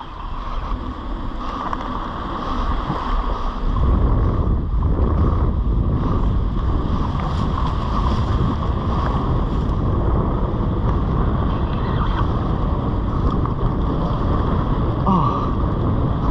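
Wind buffeting the microphone over the steady wash of surf. The low rumble grows heavier about four seconds in.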